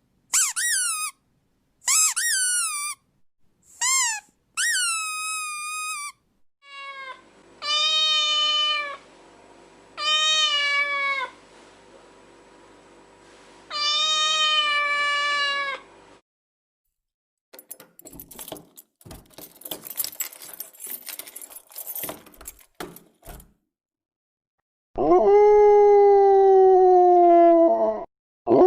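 A string of separate pet sounds: a few short, high squeaky calls, then several long falling cat meows, a stretch of crackling clicks, and a long dog howl near the end.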